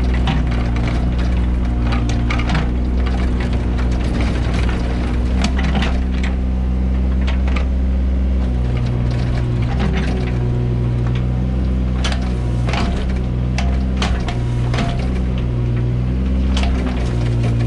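Mini excavator's diesel engine running steadily while it digs, its note shifting several times, with scattered sharp knocks and cracks of the bucket working the soil.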